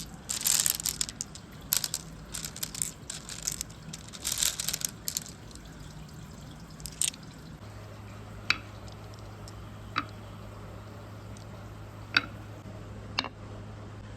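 Water splashing and trickling along a water marble run in uneven bursts for the first few seconds, then single sharp clicks or drips every second or two. A low steady hum starts about halfway through.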